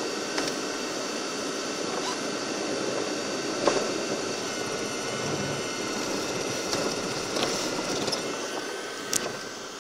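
Steady rushing noise of a vehicle on the move, with a few short clicks and knocks, the sharpest near the end.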